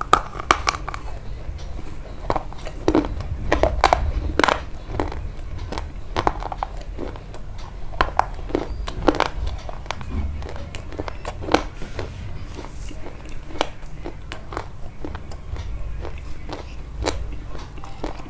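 Close-miked eating: crunchy bites and chewing, with a sharp crunch every second or so over a steady low rumble.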